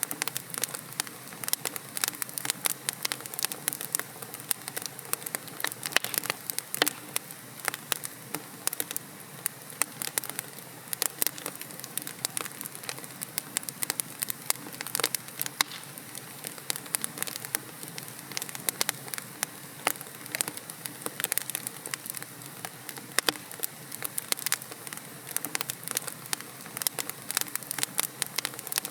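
Wood logs burning in a fireplace, crackling continuously with many irregular sharp pops and snaps over a soft steady hiss.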